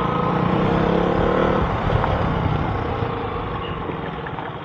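KTM RC 200's single-cylinder engine running steadily while the bike is ridden, easing off slightly near the end.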